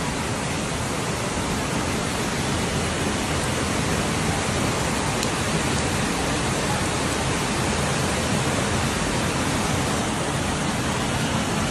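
Steady rush of water, a loud even hiss without breaks.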